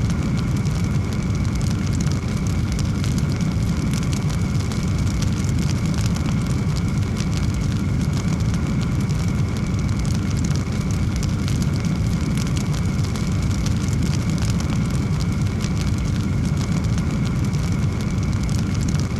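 Log fire burning: a steady low rumble of flames with a dense, continuous stream of small sharp crackles and pops from the burning wood.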